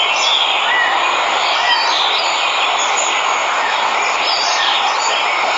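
Steady rush of a waterfall, with birds chirping here and there over it.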